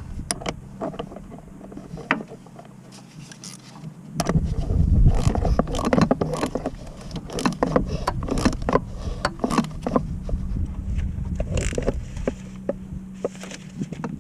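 Irregular sharp metallic clicks and knocks, like tools and parts being handled, starting about four seconds in and going on to the end, over a steady low hum.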